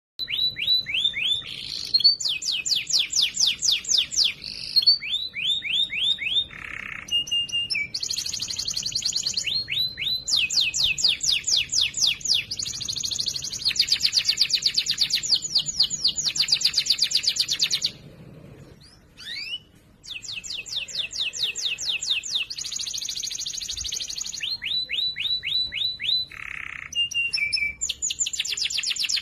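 Domestic canary singing a long, loud song made of rapid trills, each a fast run of the same repeated note, switching from one trill to the next, with a short break about two-thirds of the way through.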